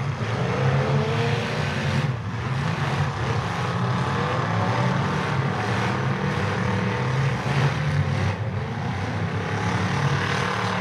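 Several demolition derby cars' engines running and revving together, rising and falling in pitch as the drivers work their cars around the track.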